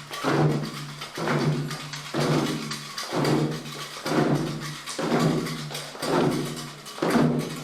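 Ceremonial percussion with a slow, steady beat of a little under one stroke a second, each stroke ringing briefly.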